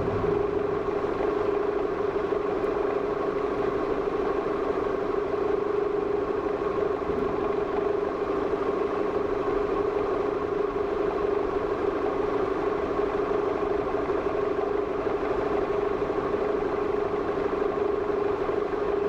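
Steady mechanical hum with a strong held tone over an even rushing noise, unchanging throughout.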